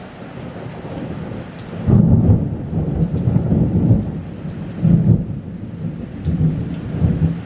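Rain falling steadily, then about two seconds in a loud rolling rumble of thunder that swells and ebbs in several waves before fading near the end.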